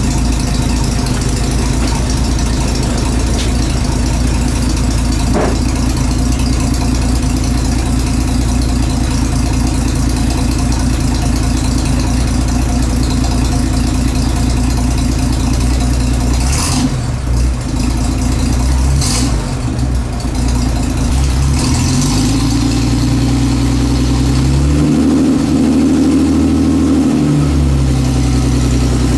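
Classic car engine idling steadily while it warms up, with a couple of brief rushing noises partway through; about three-quarters of the way in the engine speeds up, holds higher, then drops back near the end.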